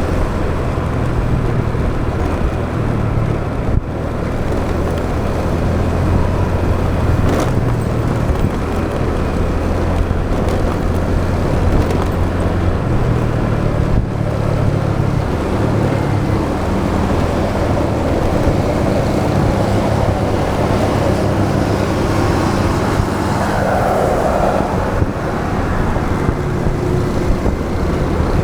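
Motorbike engine running while riding in road traffic, with wind and road noise; its pitch steps up and down several times as the throttle changes.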